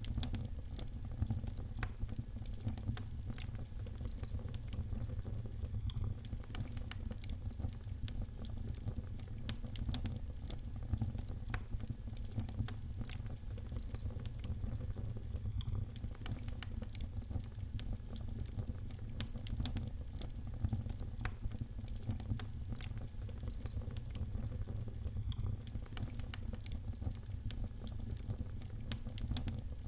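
Wood fire in a fireplace crackling, with many small sharp pops scattered irregularly over a steady low rumble of the burning.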